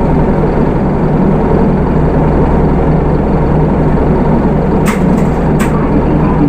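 Hino Rainbow II bus with its Isuzu 4HK1 four-cylinder diesel engine running steadily with a low, even hum. Two sharp clicks come about five and five and a half seconds in.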